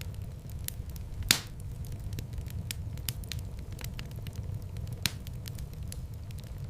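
Fireplace wood fire crackling: a steady low rumble of the flames with scattered sharp crackles, and a loud pop about a second in and another later on.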